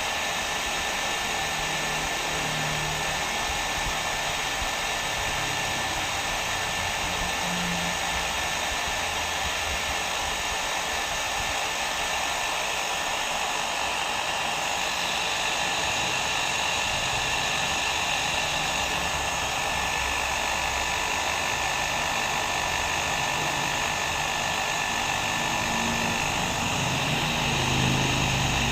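Hair dryer running steadily, an even rushing blow of air with a faint motor hum, unchanging throughout.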